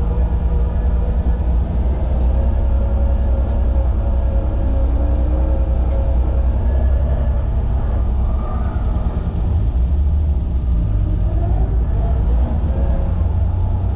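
BMW E30's M20B25 2.5-litre straight-six engine running hard on track, its pitch rising and falling as the car accelerates and slows, over a heavy low rumble.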